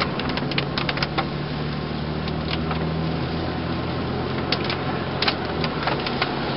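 Rain falling, with scattered sharp taps of drops striking close by, over a steady low hum that stops near the end.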